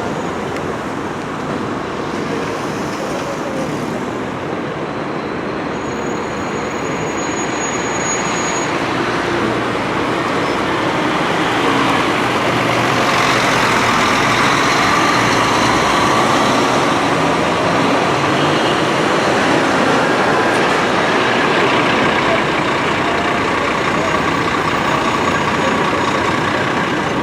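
Scania coach's diesel engine running amid road traffic noise, a steady dense rumble that grows louder about halfway through as the bus draws closer.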